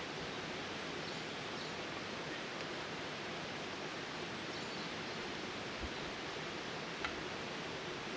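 Small wood fire burning in a Firebox Nano stove with a steady hiss. It gives two faint crackles near the end, one low and one sharper.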